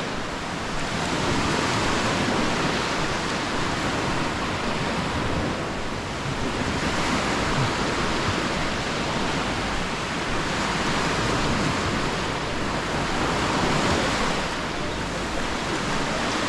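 Small sea waves washing onto the beach, the rush swelling and fading every few seconds.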